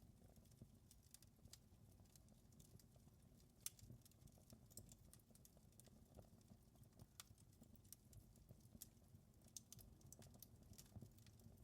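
Quiet wood fire crackling: irregular small snaps and pops over a low, steady rumble, with one sharper pop a little under four seconds in.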